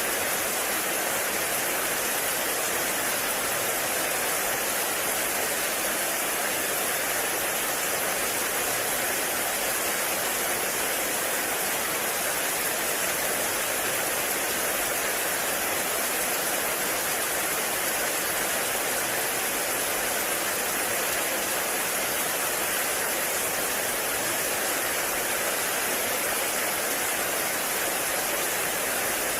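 Heavy rain falling steadily in a forest, a dense, even hiss of rain with no break.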